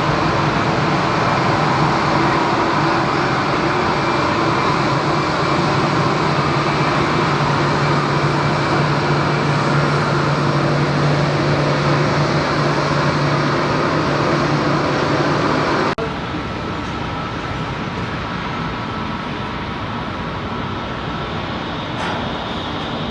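Jet airliner engines running steadily at taxi power, a constant roar with a low hum and higher steady tones. About two-thirds of the way through it cuts off abruptly to a quieter, similar steady jet noise from another aircraft.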